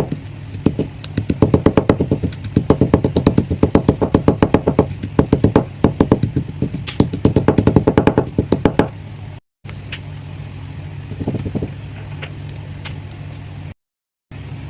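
Chalk packed in a clay diya and kulhad being crushed to powder: rapid, even crunching strokes, several a second, that stop about nine seconds in and give way to a few softer crunches, over a steady low hum.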